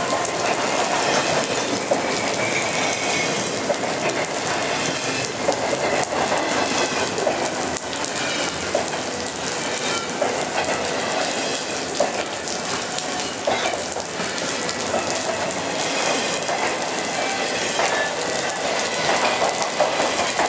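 Double-stack intermodal container freight train rolling past, with a steady noise of steel wheels on the rails broken by irregular clicks and rattles from the cars.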